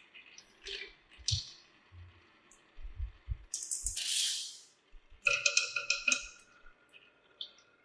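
Marbles clicking and rattling along a plastic marble run, in separate bursts, with a short rushing sound about halfway through.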